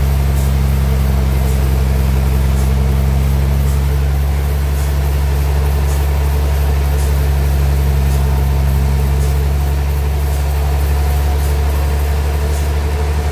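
Sawmill engine running steadily at a constant speed, a deep even hum.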